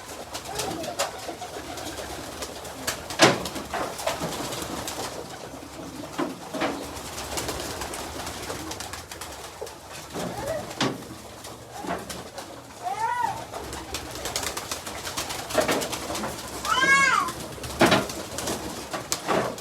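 Farm birds calling and cooing, with two louder arched calls that rise and fall about thirteen and seventeen seconds in, and scattered clicks and knocks.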